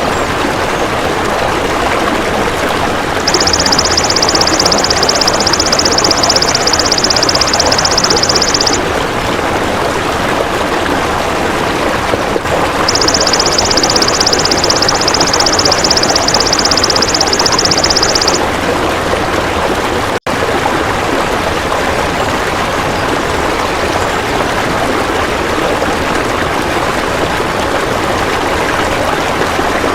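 Steady rushing stream water with a high, rapidly pulsing insect buzz from a belalang emas grasshopper laid over it twice, each buzz about five seconds long, starting about three seconds in and again near the middle. The sound drops out for an instant about two-thirds of the way through.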